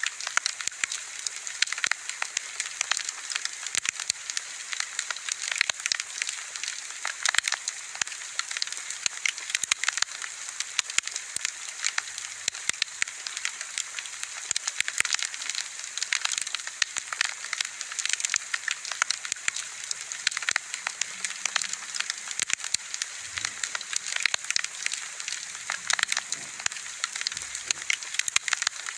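Wood bonfire crackling continuously: many sharp, irregular crackles over a steady hiss.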